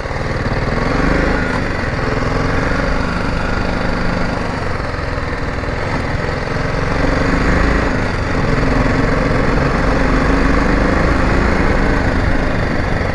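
Motorcycle engine running steadily while riding, its pitch drifting slightly up and down.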